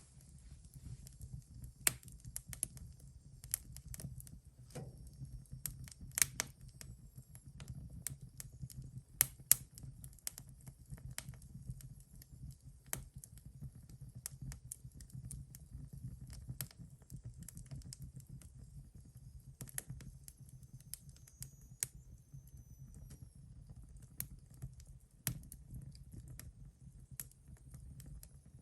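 Wood fire burning in a fireplace stove, crackling with irregular sharp pops, a few of them loud, over a steady low rumble of the flames.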